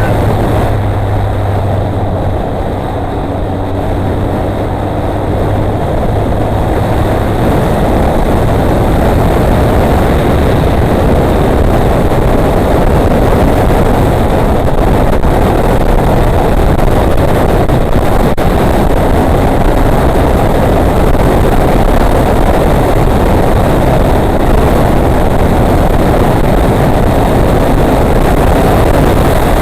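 Motorcycle being ridden on the road, its engine running steadily under a constant loud rush of wind over the microphone. A steady low hum sits on top for the first several seconds.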